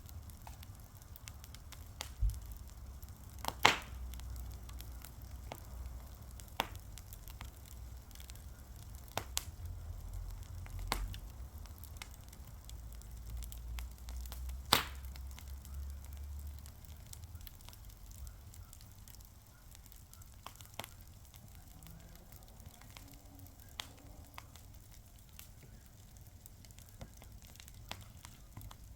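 Fire crackling with scattered sharp pops, the two loudest about 4 and 15 seconds in, over a faint hiss. A low rumble sits underneath for the first half.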